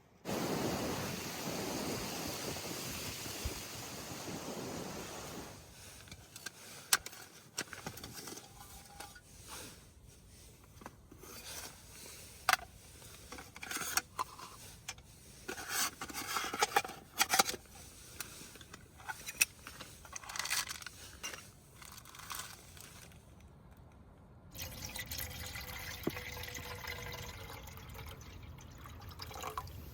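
Water poured into a container for several seconds, fading out. Then a scatter of light clicks and knocks, as of cookware being handled.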